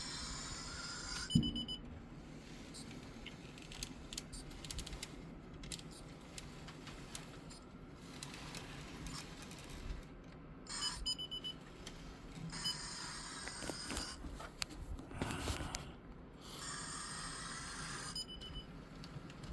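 Model railroad power system beeping in short bursts of quick high beeps, three times, the warning that the track has a short circuit. Faint clicks and rattles run underneath.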